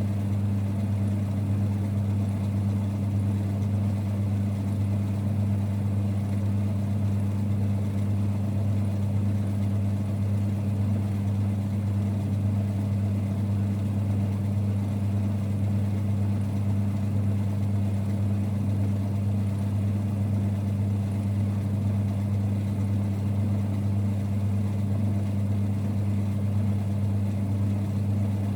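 1946 Boxford lathe running steadily, a low, even hum that does not change.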